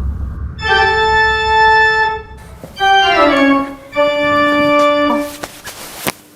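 Organ-like keyboard music: three held chords, the middle one sliding down in pitch.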